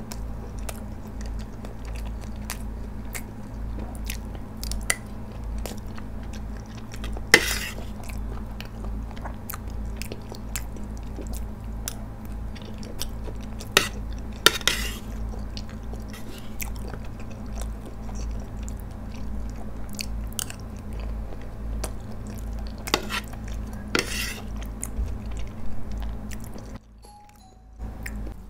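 Close-miked chewing of penne pasta: wet mouth sounds with many small sharp clicks and a few louder smacks, over a steady low hum.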